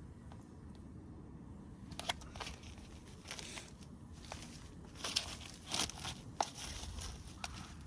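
Rustling and crinkling from something being handled, with short sharp clicks and crackles that begin about two seconds in.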